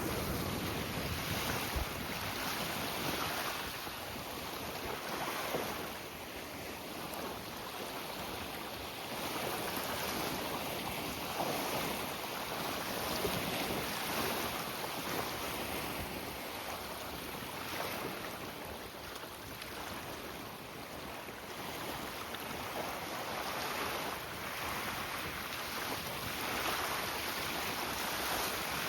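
Strong wind buffeting the microphone in gusts that swell and ease every few seconds, over the wash of choppy water.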